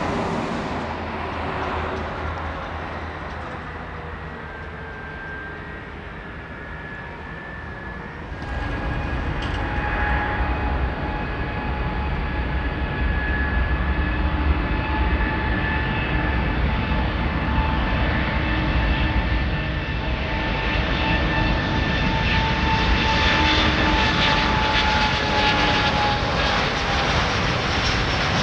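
Jet airliner engines running, a loud rumble with a steady high whine. It gets abruptly louder about eight seconds in, and the whine falls slightly in pitch near the end.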